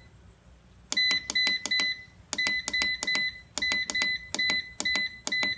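A digital cooking timer being set by repeated button presses. Each press gives a click and a short high beep, in quick runs of about three beeps with brief pauses between, counting the time up to 25 minutes.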